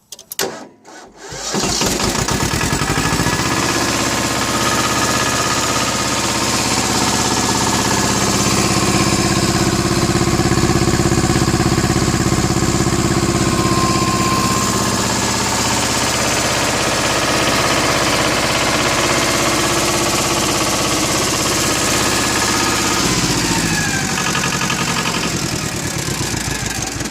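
Yanmar YM1600 compact tractor's 21-horsepower diesel engine being started: it cranks and catches within about two seconds, then runs steadily and smoothly. Near the end its speed drops a little.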